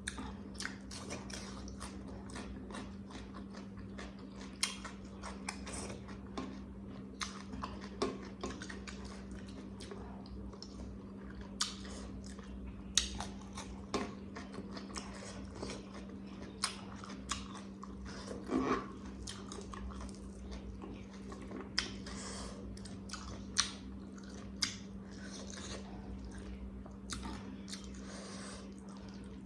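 Close-miked eating: chewing and biting, with wet mouth clicks and occasional crunches at irregular moments. A steady low hum runs underneath.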